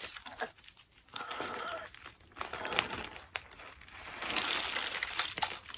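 Crinkling and rustling of packaging being handled, with scattered small clicks, turning into a denser, steadier rustle in the last second and a half.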